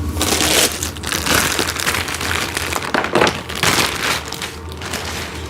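Plastic packaging crinkling and rustling in irregular bursts as toy parts are unwrapped and handled.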